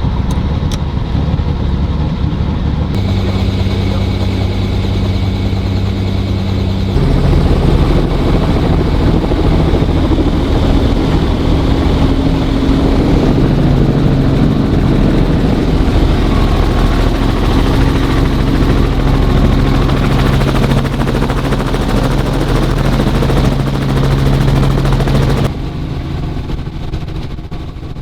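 Robinson R44 helicopter running steadily, its engine and rotors making a loud, even drone with a few steady tones. The sound changes abruptly about three and seven seconds in and drops somewhat near the end.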